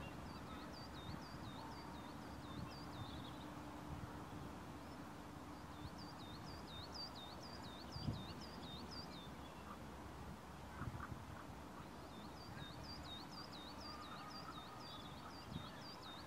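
A small songbird singing three runs of a quickly repeated high two-note phrase over a steady low outdoor rumble, with a few soft thumps.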